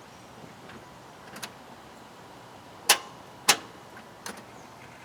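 Sharp clicks from the 1994 Chevy 1500's 5.7 L 350 starter circuit as the key is turned, two loud ones about half a second apart near the middle and a few fainter ones around them, with no cranking. The engine does not turn over: the no-start that he has been tracing to a corroded battery cable.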